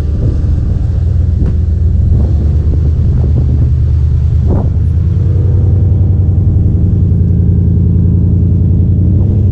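Vehicle driving, with a steady low engine and road rumble and a few light knocks in the first half.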